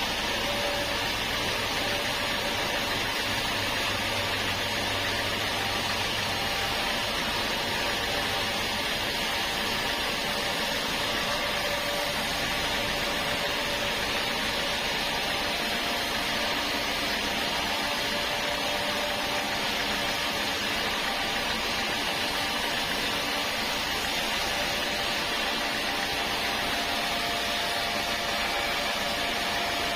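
Sawmill machinery running steadily: a constant mechanical noise with a few faint steady tones, unchanged throughout.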